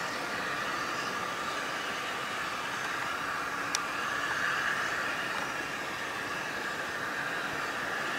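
Steady hiss from a train standing at a station platform, with a single short, sharp click about four seconds in.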